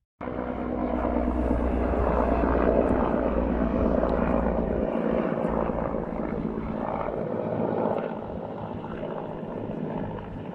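Car driving, with steady engine and road noise that starts abruptly. The deepest rumble drops away about halfway through.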